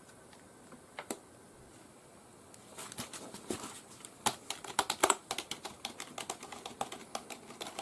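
Keys of a Logicool K275 wireless membrane keyboard being pressed: a single keystroke about a second in, then a quick, uneven run of keystrokes from about three seconds in.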